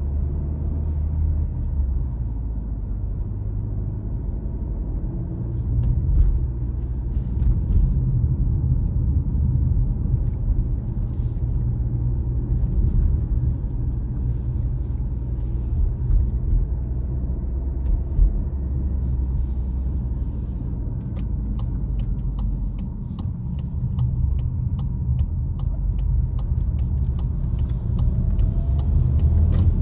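Car driving along a road: a steady low rumble of engine and tyres, with a run of quick, evenly spaced ticks in the second half.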